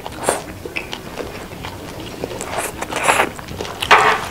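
A boy chewing and biting a mouthful of grilled meat close to the microphone, eating-ASMR style: irregular small clicks, with a louder, denser stretch of chewing about three seconds in.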